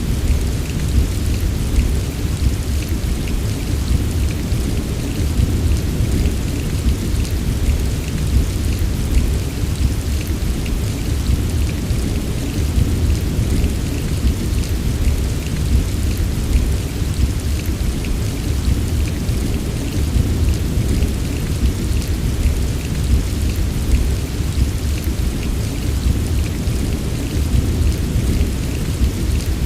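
Steady heavy rain with a continuous low rumble underneath and fine crackling drops on top, unbroken throughout.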